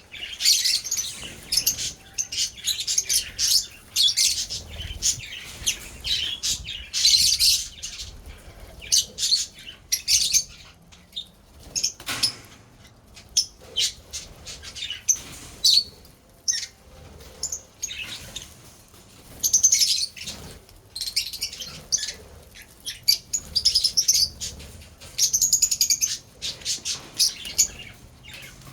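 Lovebirds chattering: rapid, high chirps in bursts, with short pauses between them.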